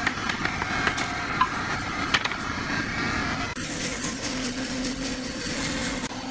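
Steady mechanical running noise with scattered clicks and taps. About three and a half seconds in, the sound changes abruptly to a steadier machine hum.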